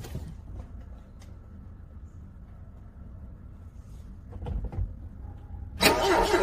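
Low rumble with a few faint clicks and knocks. Near the end, a car's starter motor suddenly begins cranking the cold engine loudly, with a quick, even, pulsing beat.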